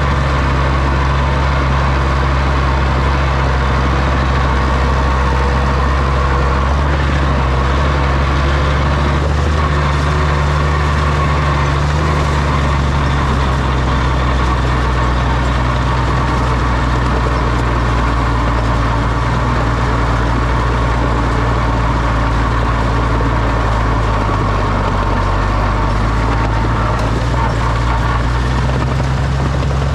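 Oliver OC-6 crawler tractor's engine running steadily with a low, even note, dipping slightly in pitch about three-quarters of the way through.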